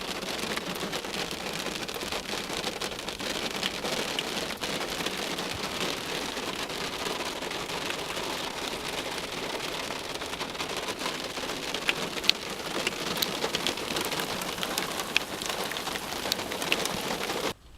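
Steady rain falling, with many individual drops ticking sharply on a hard surface; it cuts off abruptly near the end.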